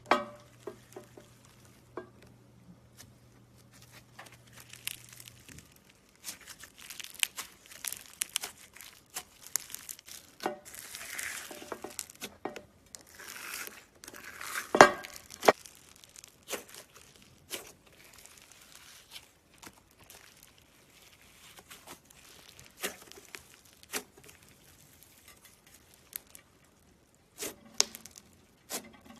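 Slime being squeezed and stretched by hand, giving irregular sticky crackles and pops with short quiet gaps; the loudest pop comes about halfway through.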